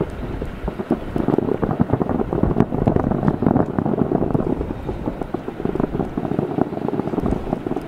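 Distant aerial fireworks crackling and popping densely across the water, the sound of the last golden shells arriving after their light has faded.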